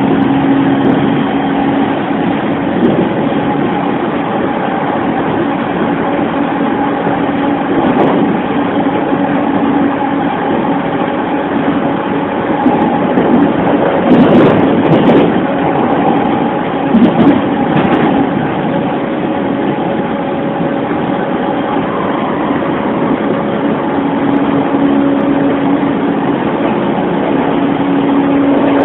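Running sound inside a JR East E231 series 1000 electric multiple unit travelling at speed: steady wheel-on-rail rumble with a constant hum from the Mitsubishi Electric VVVF inverter-driven traction motors. About halfway through it grows louder and busier for a few seconds, with several sharp clicks.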